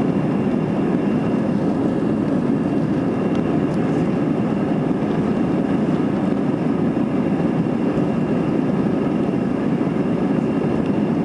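Airbus A320 at takeoff power, heard from inside the passenger cabin: a steady, even rumble of jet engines and rushing air, with a faint high steady whine above it.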